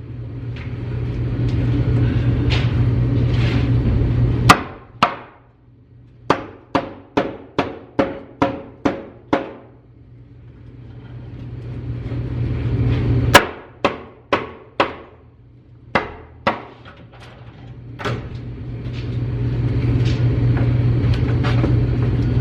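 Hammer blows on the wooden plank wall being demolished: two single heavy strikes and runs of quick blows, about two to three a second, with pauses between the runs.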